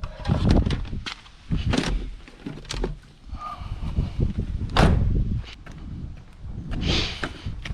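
Irregular knocks and thuds of hard items being picked up, moved and set down, with the heaviest thud about five seconds in.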